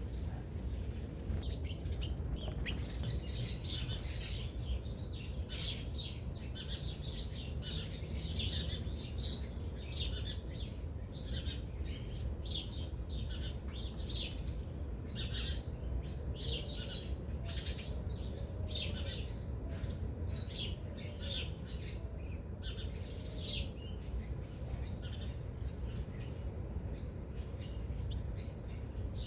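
A mix of small birds chirping and calling, short quick chirps overlapping one another throughout, over a steady low rumble.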